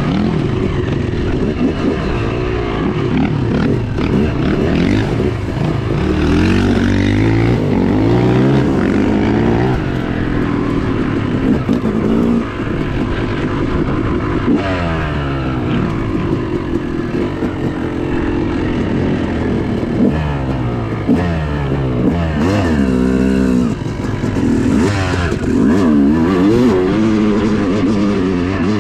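Yamaha YZ250 two-stroke dirt bike engine being ridden hard, its pitch climbing under throttle and dropping back, over and over.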